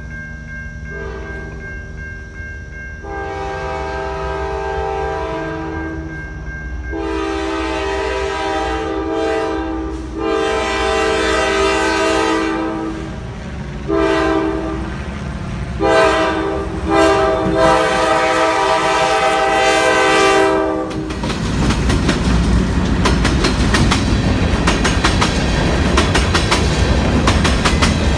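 Diesel freight locomotive's horn sounding several blasts as the train approaches, the last one held for about five seconds. Then, from about two-thirds of the way in, the train passes close by and the freight cars' wheels rumble and clatter rapidly over the rail joints.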